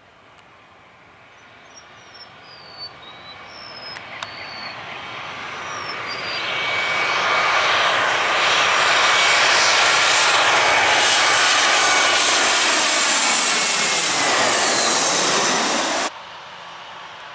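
Airliner's engines passing low overhead: the sound swells over several seconds to a loud, whining rush, the whine dropping in pitch as the aircraft goes by, then cuts off suddenly near the end.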